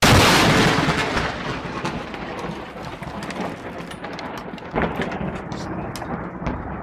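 Thunder: a loud crack right at the start that fades into a long rumble over a steady hiss of rain, with a second, smaller surge about five seconds in.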